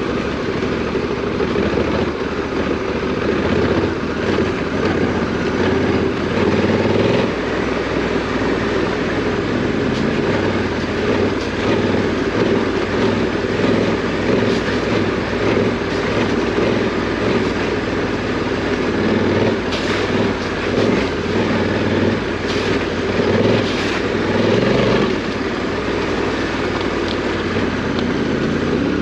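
Parallel-twin adventure motorcycle engine running under changing throttle while riding off-road. There are a few sharp knocks about two-thirds of the way through.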